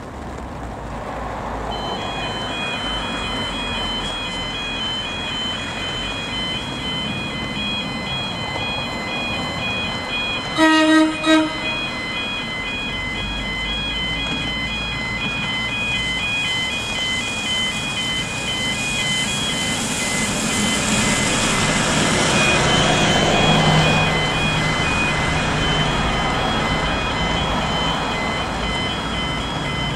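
Level crossing's electronic warning alarm beeping in a steady pulsing pattern while an Irish Rail 22000 class diesel railcar train approaches and passes. The train sounds its horn in two short blasts about eleven seconds in, and its engine and wheel noise builds to its loudest a little after two-thirds of the way through.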